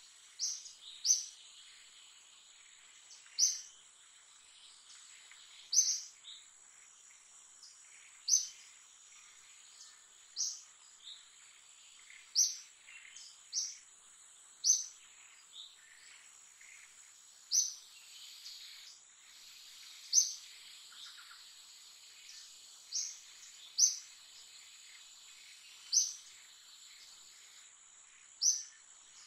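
A bird repeating a short, sharp, high chirp every second or two, over a steady high-pitched insect drone.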